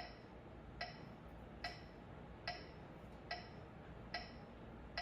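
Metronome ticking steadily and faintly, at about 72 beats a minute.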